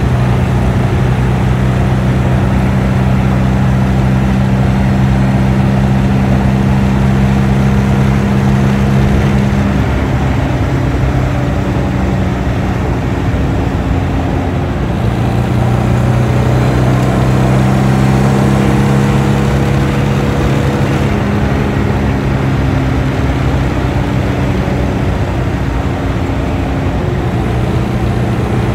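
A Jaguar E-Type's engine heard from the driver's seat at highway cruising speed: a steady, loud engine note over wind and tyre noise. The note eases off around ten seconds in and again around twenty seconds in, and picks back up each time.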